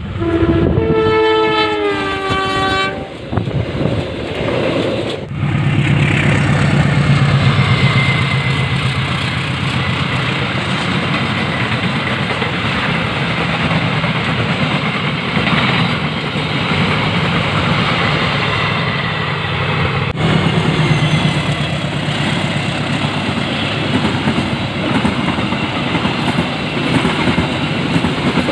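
A CC 206 diesel-electric locomotive sounds its horn for about three seconds as it approaches, the pitch stepping partway through. It then passes close by at speed, with a loud low engine drone. Its passenger coaches follow with a continuous rumble and wheel clatter on the rails.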